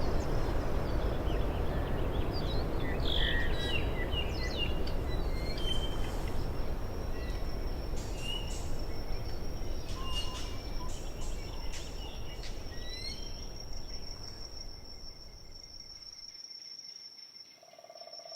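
Natural ambience of small birds chirping and calling, over a low rushing noise that fades out about 16 seconds in. A steady high-pitched insect trill carries on underneath.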